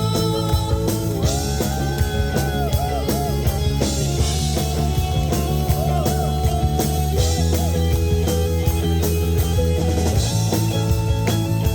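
Live rock band playing a song: drum kit keeping a steady beat under sustained bass and keyboard chords, with a lead line that bends up and down in pitch.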